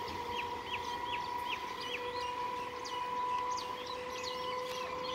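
Small birds chirping over and over in quick, hooked chirps, above a steady faint whine that holds one pitch.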